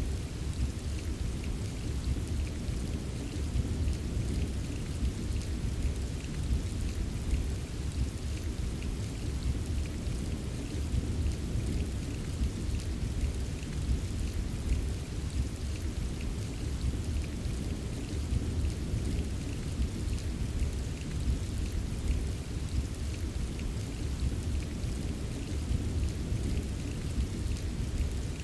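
Steady rain with a deep, constant low rumble beneath it and many small drop ticks scattered through it.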